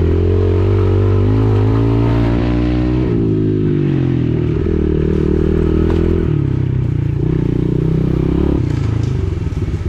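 Pit bike engine running as it is ridden, its pitch dropping about three seconds in and changing again around six seconds as the throttle is eased and opened.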